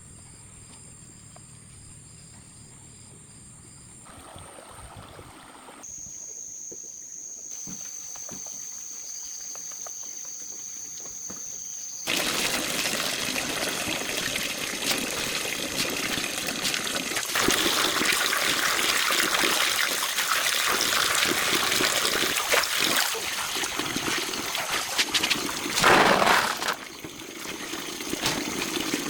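Water trickling and splashing, loud from about twelve seconds in, with a brief louder splash near the end. Before it, a quieter stretch with faint high steady tones.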